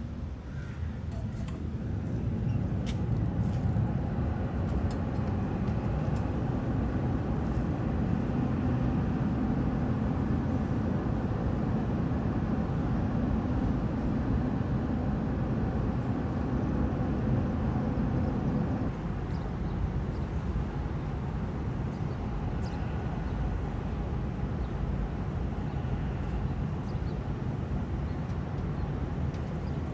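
Steady low rumble of city traffic in the open air. It swells over the first few seconds and eases a little about nineteen seconds in, with a few faint short high ticks over it.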